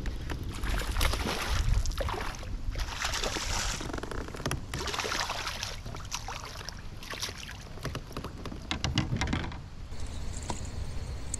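Water sloshing and slapping against a kayak hull in irregular splashes, over a steady low rumble of wind on the microphone. The splashing stops shortly before the end.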